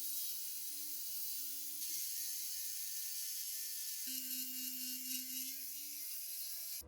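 An electric rotary power tool runs steadily over a strong hiss, as when it works on rusty metal. Its whine shifts pitch twice and then cuts off abruptly near the end.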